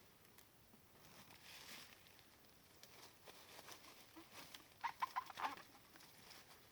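A bird calling: a quick run of about five short notes, about five seconds in, over faint rustling.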